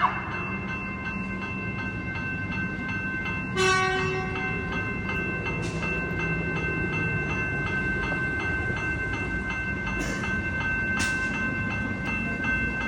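Fire truck running with a low rumble and a steady high whine, with one short horn blast about three and a half seconds in.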